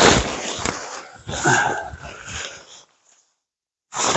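Rustling, crackly handling noise in uneven bursts. It cuts to dead silence for about a second near the end, then starts again.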